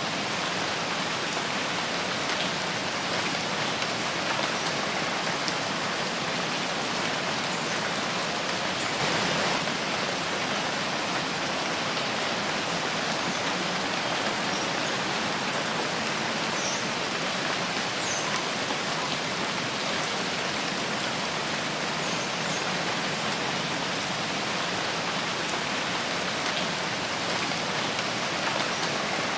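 Steady rain falling on forest foliage, an even dense hiss with scattered drop ticks. It swells slightly about nine seconds in.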